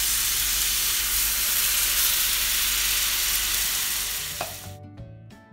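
Loud, steady sizzling of water just poured onto hot oil and fried spice paste in a frying pan, bubbling on the gas flame. It cuts off suddenly near the end, and plucked-string background music takes over.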